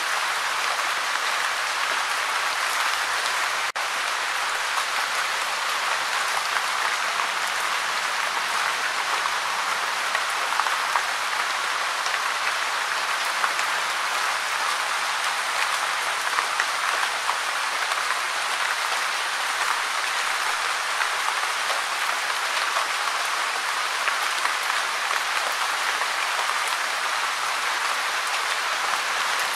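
Steady gentle rain falling, an even hiss of many small drops with no let-up, broken only by a split-second dropout about four seconds in.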